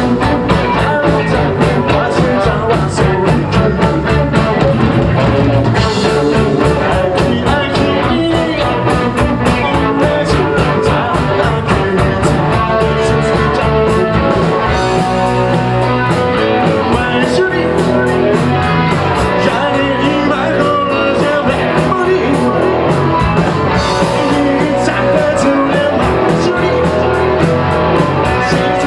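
Live punk rock band playing at full volume: electric guitars and drums with a fast, even beat, and a singer's vocals.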